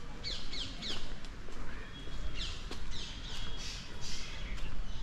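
Birds chirping, many short notes that sweep downward in pitch, over a low steady rumble.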